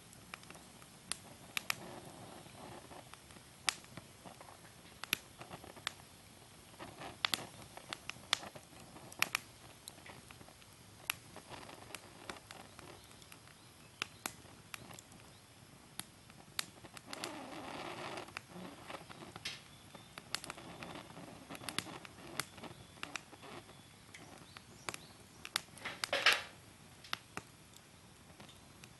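Fire burning in a Picogrill 498 fire pit, crackling with irregular sharp pops. There is a short stretch of hissing a little past halfway, and one louder snap near the end.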